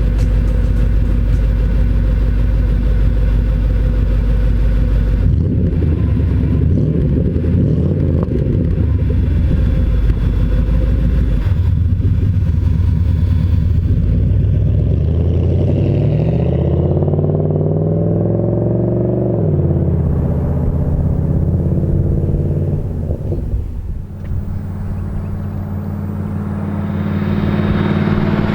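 Mercedes-Benz W126 V8 running through a Magnaflow muffler with the resonator deleted. A little over halfway through, the revs climb and then drop back, and the engine settles to a steadier idle.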